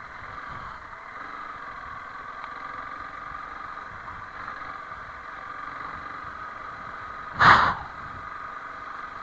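Honda CRF300L Rally's single-cylinder engine running steadily, with one brief, loud burst of noise about seven and a half seconds in.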